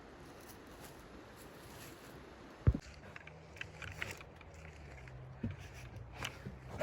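A single sharp knock a little under three seconds in, followed by scattered light clicks and handling sounds over a low steady hum.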